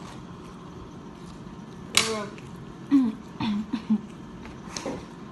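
A person's short wordless vocal sounds: a loud falling-pitch exclamation about two seconds in, followed by several short hums or grunts and one more near the end, over faint clicks.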